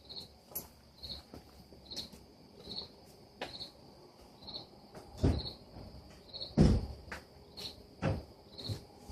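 A cricket chirping steadily, one short high chirp a little less than once a second. A few dull thumps come in the second half, the loudest a little past halfway.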